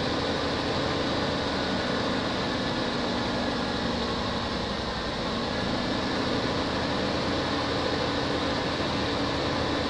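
1992 Ford Econoline's 4.9-litre inline-six engine idling steadily.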